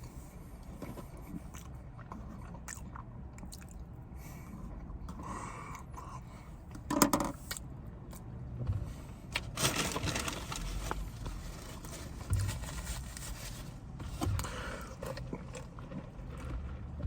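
Close-miked chewing and crunching of food, with a handful of louder crunches and scrapes scattered through.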